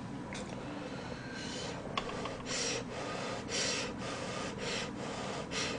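A person chewing a spoonful of soft rice soup with green-onion kimchi close to the microphone: short wet mouth and breath noises about once a second, with one sharp click about two seconds in.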